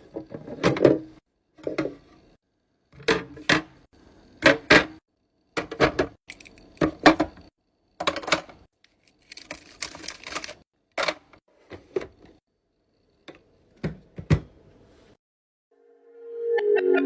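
Skincare containers clicking and clacking as they are handled, opened and set down while a small skincare fridge is stocked: irregular sharp taps and short rattling clusters, about one or two a second, with gaps between. Near the end a musical tone fades in.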